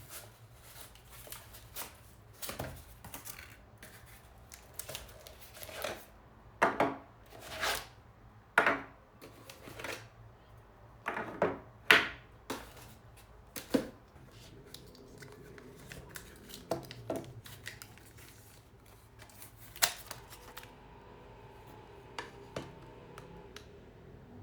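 A series of small knocks, taps and rustles of household objects being handled and set down, with the loudest clatter in the middle and a sharp knock about twenty seconds in.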